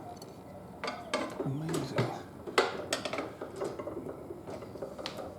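Metal tyre-changing tools clinking and knocking against a motorcycle wheel rim as a tyre bead is levered on: a handful of sharp irregular clicks and clanks.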